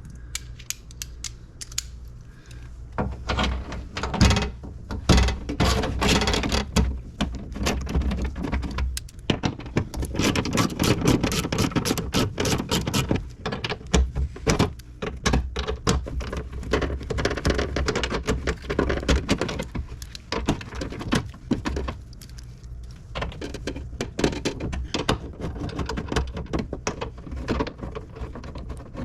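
Ratchet with a 10 mm socket clicking in rapid runs while bolts on the power window motor and regulator are backed out, with metal tool clatter in between.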